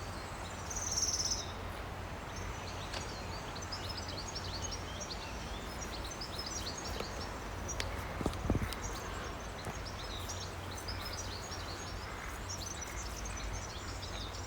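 Many birds singing outside an open window: constant overlapping chirps and short song phrases, over a steady low rush from a mountain river. A brief low bump about eight seconds in.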